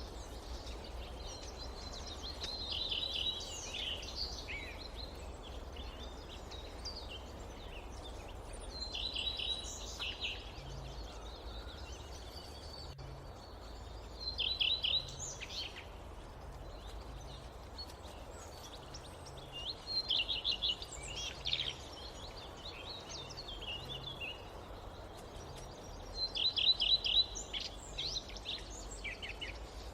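Forest birds singing, one repeating a short phrase of quick notes every five or six seconds, over a steady low rumble of ambient noise.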